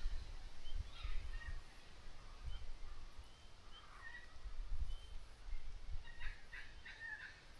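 Birds chirping faintly and sporadically, with a quick run of short chirps near the end, over low rumbling.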